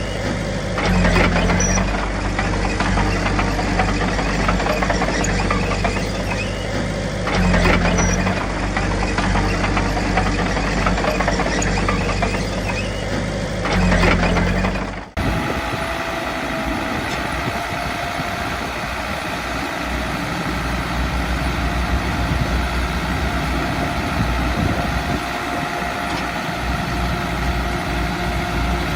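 Diesel engine of heavy earthmoving machinery working, swelling briefly under load about every six seconds. About halfway through it cuts off abruptly to a steadier engine sound with a faint held whine.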